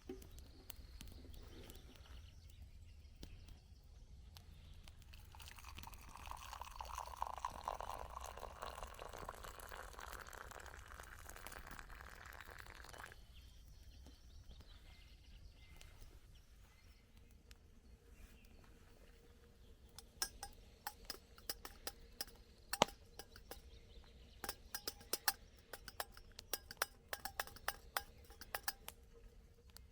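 Liquid pouring for several seconds, then a run of irregular sharp clicks and ticks.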